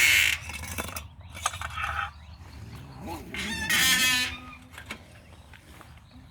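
Two harsh, raspy animal calls: one cutting off just after the start, a second about three and a half seconds in, with a few sharp clicks between them.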